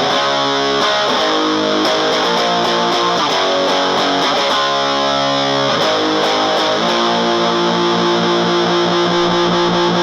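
Electric guitar played through a Round Digital Sound GX-25 25-watt combo amplifier with a 10-inch speaker. Chords change for several seconds, then one chord is held and rings out for the last few seconds.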